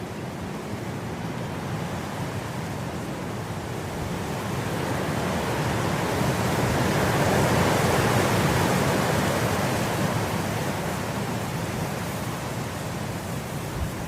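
Wind blowing through grass, rising in a gust to a peak about halfway through and easing off again.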